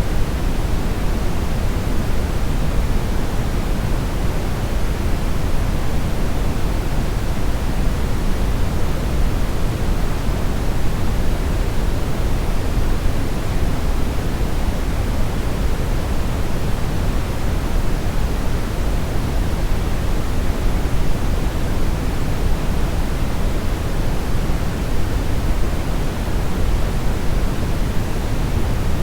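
Steady, unchanging brownish noise: a continuous deep hiss, weighted toward the bass, with no pitch and no events.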